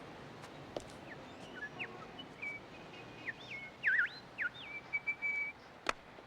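A bird singing: a string of clear whistled notes, some held steady and some swooping up and down. A sharp click comes near the end.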